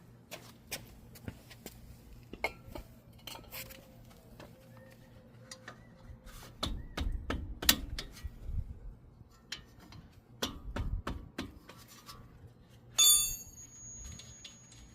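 Hand tools clinking and knocking against steel brake parts while a disc brake caliper is taken off: scattered sharp clicks and knocks, some with a short metallic ring. A loud ringing metal clang comes near the end.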